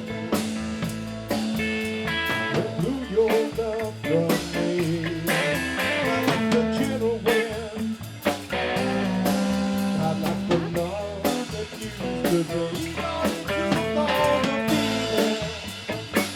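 Live blues-rock band playing an instrumental break: electric guitar lead over bass and a drum kit keeping a steady beat.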